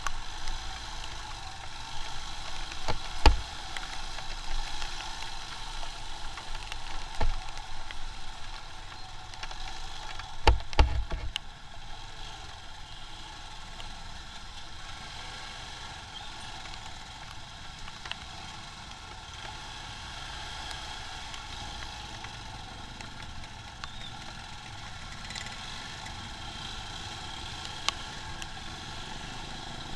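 Motorcycle riding in traffic: steady engine and road noise, with a few sharp thumps in the first eleven seconds, then steadier and a little quieter.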